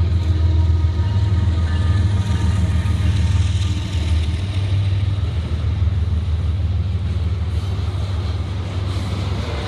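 Freight train passing close by: the diesel locomotives' engines drone low and steady as they go by, then the rumble of tank cars rolling past, a little quieter from about four seconds in.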